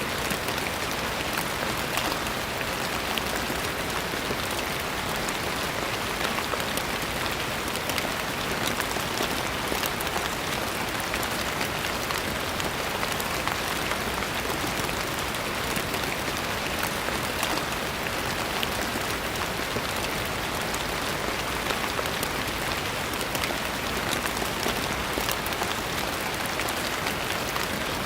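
Steady rain falling, with a constant hiss and many small drop ticks.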